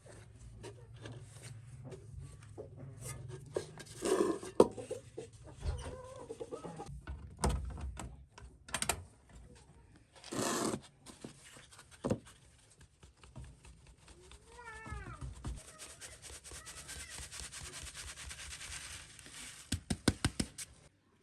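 Scattered knocks and clatter, with one short animal call about two-thirds of the way through that rises then falls in pitch, and a quick run of sharp knocks near the end.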